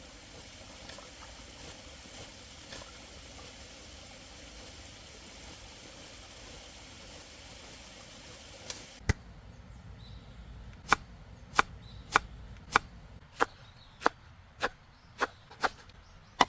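A steady rushing of flowing water, then, about nine seconds in, a knife chopping on a cutting board: about ten sharp, even strokes, a little under two a second.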